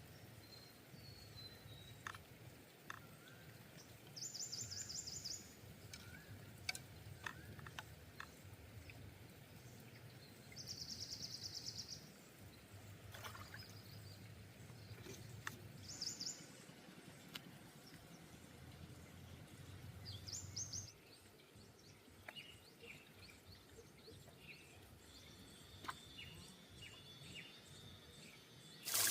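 Quiet outdoor ambience with a small bird giving four short, high, rapid trills, each about a second long and spaced several seconds apart, among scattered faint chirps and light clicks.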